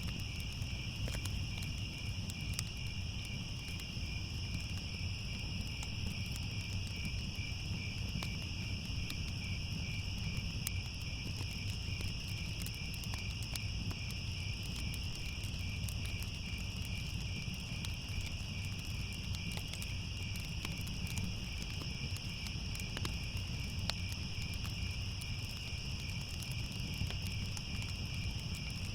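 Crickets chirping in a steady, fast-pulsing trill, over a low rumble scattered with faint crackles from a fire.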